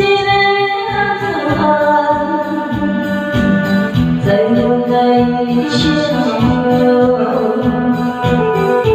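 A song with singing over a band accompaniment, long held vocal notes over a steady beat.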